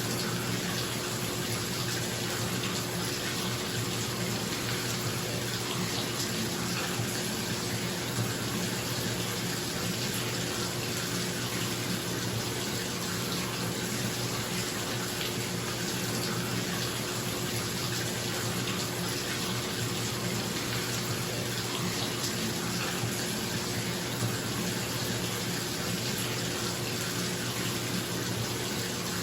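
Bathtub tap running steadily, water pouring into the tub, with a bathroom exhaust fan humming underneath.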